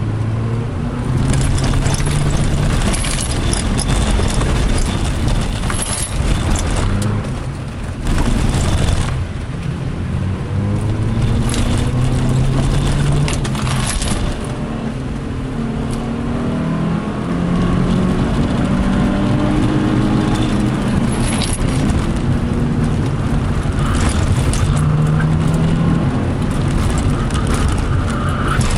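Subaru Impreza's naturally aspirated flat-four engine, heard from inside the cabin, revving hard and dropping back again and again as the car is driven fast through gear changes, over constant tyre and road noise.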